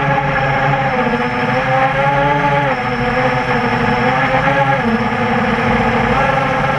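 Brushless motors and propellers of a QAV400 quadcopter (Tiger Motor MT-2212 1100kv motors, 8-inch props) whining in flight, the pitch dropping and rising several times as the throttle changes.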